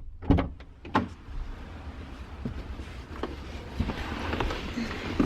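A few sharp knocks and thumps over a steady low rumble and hiss, the loudest near the start and about a second in, with lighter ones later.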